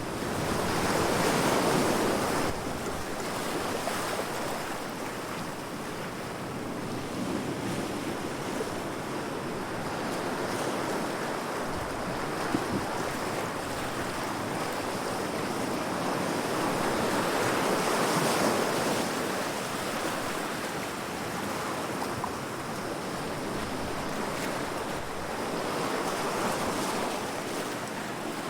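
Heavy sea waves breaking against rocks: a continuous wash of surf that swells loudest about a second in, again about two-thirds of the way through, and once more near the end.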